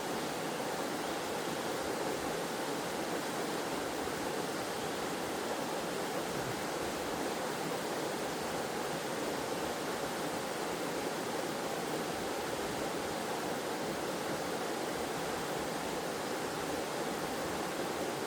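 Waterfall in a forest stream, water falling and flowing in a steady, even rush.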